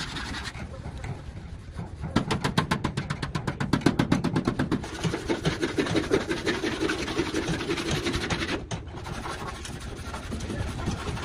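A machine running with a rapid, even ticking, about ten ticks a second. It grows louder about two seconds in and drops away suddenly near the end.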